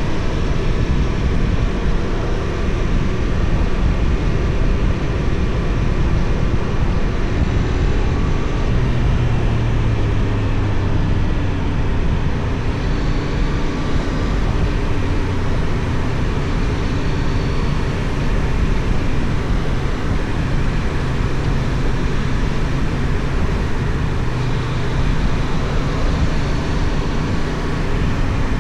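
Wind rushing over the action camera's microphone as the Benelli Tornado 550's 554 cc parallel-twin engine runs underneath, at a fairly steady road speed.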